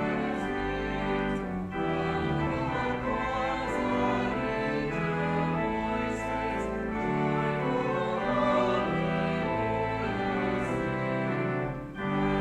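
Church music: a hymn with sustained chords that change about once a second, and singing voices over them.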